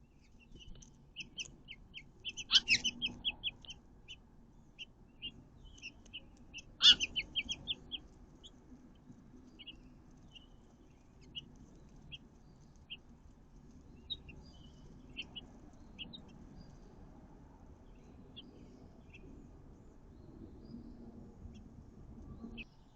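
Small songbird at its nest giving quick series of short, high chirps, busiest in the first half and sparser later, with two louder sharp bursts about two and a half and seven seconds in.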